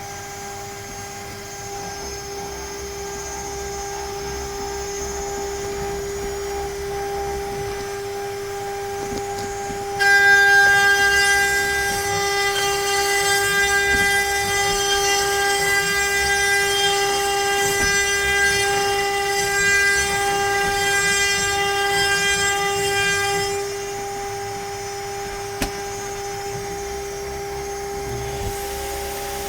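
CNC router milling letters into pine, its spindle running with a steady whine. From about ten seconds in until a few seconds before the end, a louder, higher-pitched cutting sound rides over it as the bit works through the wood, then drops back to the spindle whine.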